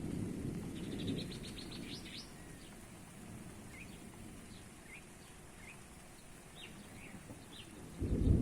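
Thunder rumbling and dying away over the first two seconds, while a bird chirps: a quick run of about eight chirps about a second in, then single short chirps every second or so. Right at the end a loud new thunderclap breaks in.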